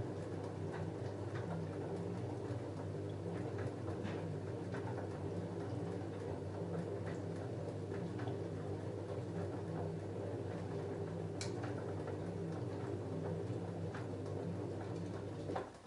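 LG F10A8HDS5 front-loading washing machine tumbling a load of denim jeans mid-wash: a steady motor hum with scattered light clicks and taps from the load in the drum. The hum stops abruptly near the end as the drum comes to a halt.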